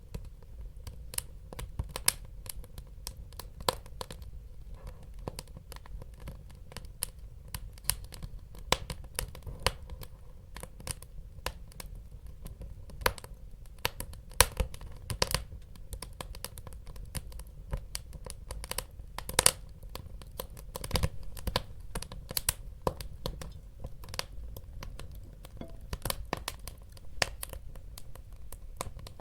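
Wood fire burning in a fireplace: a steady low rumble with irregular crackles and occasional sharper pops from the burning logs.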